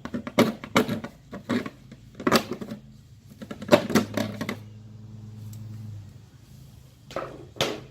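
Irregular clicks and knocks of hand tools and parts being handled while taking apart a cover in a Toyota Camry's engine bay, with a low steady hum for about a second and a half midway.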